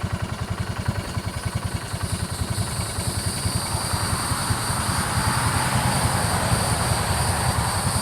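An engine idling with a fast, even low chugging, joined by a hiss that swells in the middle.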